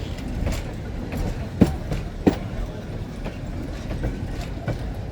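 Train wheels clacking over a rail joint as a train rolls slowly past over a steady low rumble. A louder pair of clacks comes about two seconds in, with fainter clicks elsewhere.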